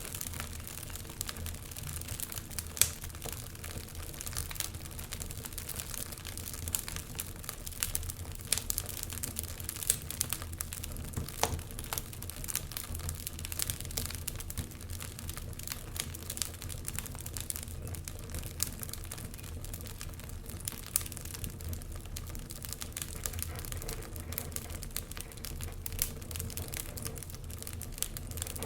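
Wood logs burning in a fireplace, crackling with frequent small pops and a few louder ones, over a steady low background of the fire.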